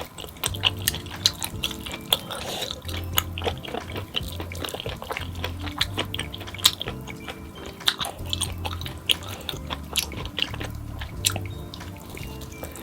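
Close-up mouth sounds of someone eating, wet chewing with frequent short sharp clicks, over soft background music with a steady low bass line.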